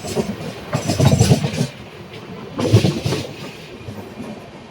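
Train wagons rolling along the track, with two loud bursts of wheel clatter over rail joints about two seconds apart over a steady rumble.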